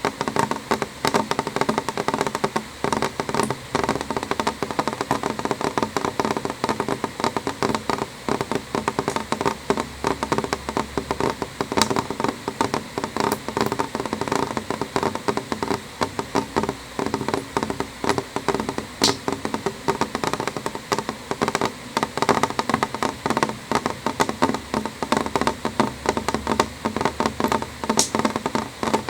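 Rain falling on a window: a steady, dense patter of drops, each tapping sharply against the glass.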